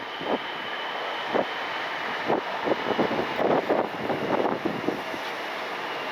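Distant jet airliner engines running, with a faint steady high whine, under wind buffeting the microphone in irregular gusts.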